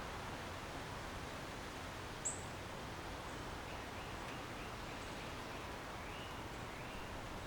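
Steady outdoor background noise of a residential backyard, with a bird calling: one sharp high chirp about two seconds in, then a quick run of short, fainter chirps and two brief upward-sliding calls near the end.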